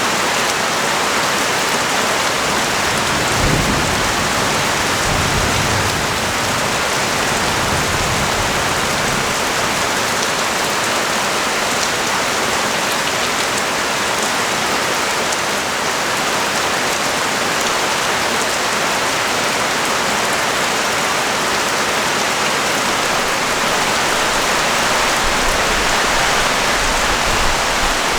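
Rain falling on a street, a dense steady hiss. A low rumble comes in a few seconds in and again near the end.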